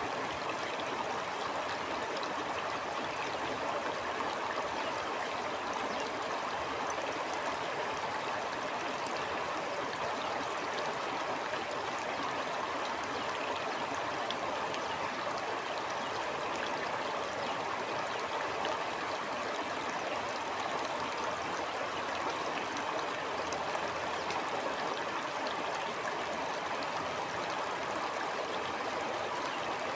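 A stream flowing: a steady, even rush of running water with fine gurgling and trickling.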